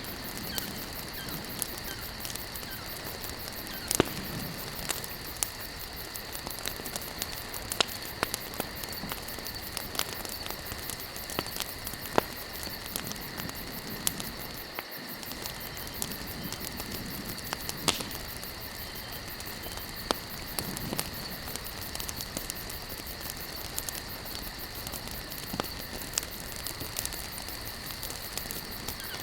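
Campfire burning, the wood crackling with sharp, irregular pops, the loudest about four seconds in, over a steady high-pitched drone.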